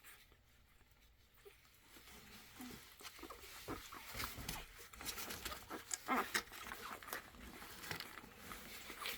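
American Bully puppies nursing: a busy run of small wet sucking and smacking clicks mixed with brief squeaks and grunts, starting about two seconds in and growing livelier.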